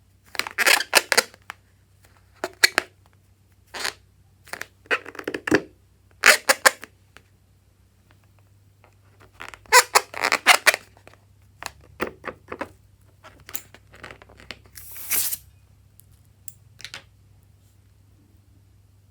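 Slime-making materials handled by hand: a series of short crackling, squeaking bursts in uneven clusters, with a pause in the middle.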